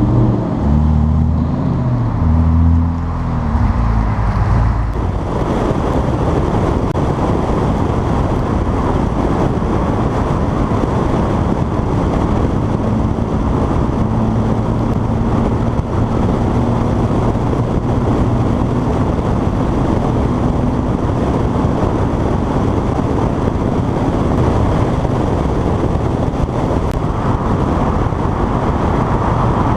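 Car on the move: for the first few seconds the engine note steps up and down as if through gear changes, then it settles into a steady low engine drone under constant road and wind noise.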